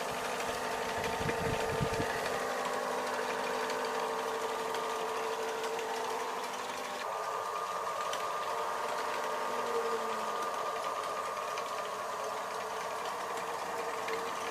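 Restored 3 kW generator set running steadily with a constant whine, its tone shifting slightly about halfway through.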